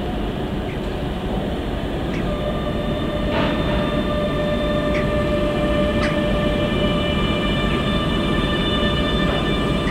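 A train running past at low speed: a steady rumble with a few short clicks, joined about two seconds in by several steady high whining tones that hold to the end.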